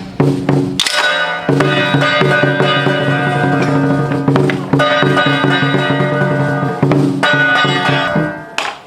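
Traditional ritual music: sustained pitched instruments over drum and percussion strikes. It is loud throughout and falls away just before the end.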